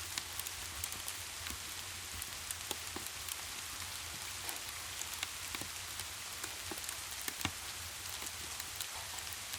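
Steady rain hiss, scattered with many short sharp ticks and pops, one louder pop near the end.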